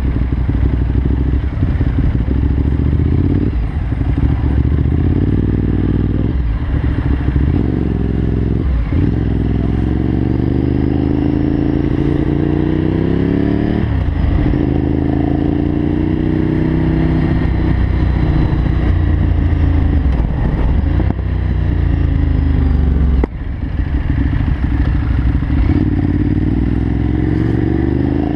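Kawasaki Z750's inline-four engine pulling through the gears, its pitch rising in long sweeps and dropping briefly at each gear change, over a steady rush of wind.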